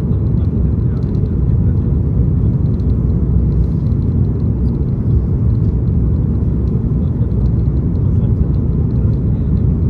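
Steady low rumble of jet engine and airflow noise inside the cabin of an Airbus A330-200 airliner.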